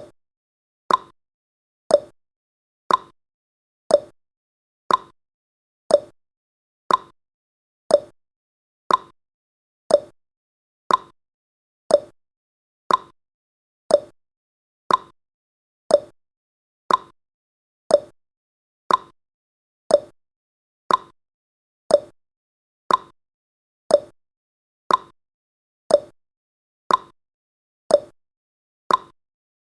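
Countdown timer's tick sound effect: one short click every second, evenly spaced, about thirty in a row.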